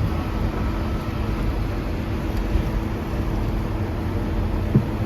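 Steady low engine rumble with a faint steady hum, and one short sharp knock near the end.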